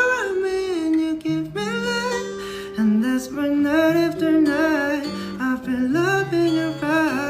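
A male voice singing a smooth, gliding melody over acoustic guitar, with no clear words.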